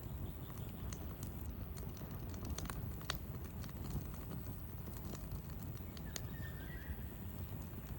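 Wood fire crackling: irregular sharp pops and snaps over a low steady rumble, with a faint short high chirp about two-thirds of the way through.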